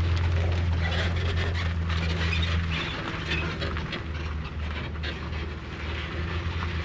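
A steady low mechanical hum with a crackling hiss over it; the hum drops in level about three seconds in.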